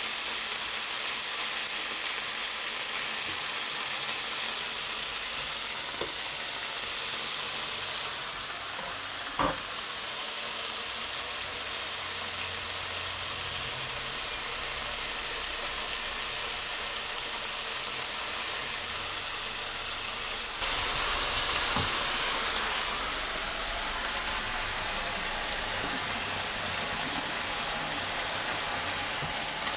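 Food frying in a hot pan, a steady sizzle, with a single sharp knock about a third of the way in. The sizzle grows a little louder about two-thirds of the way through.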